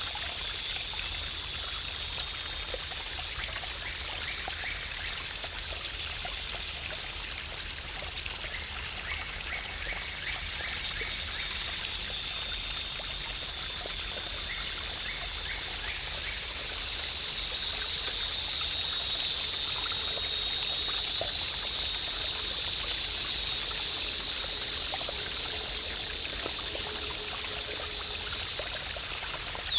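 Waterfall water splashing and pouring steadily, with a few faint bird chirps now and then and a quick falling bird whistle near the end.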